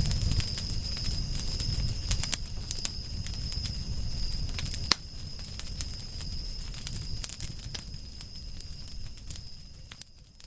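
Campfire crackling: irregular sharp pops over a low rumble, with a steady high-pitched whine throughout. It drops in level about halfway through and fades out near the end.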